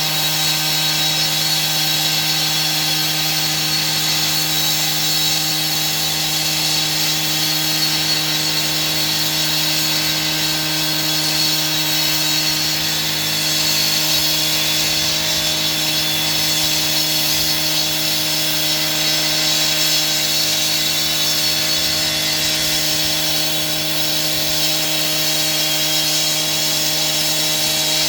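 Power saw running steadily through a cut, a constant motor hum with a steady cutting noise over it.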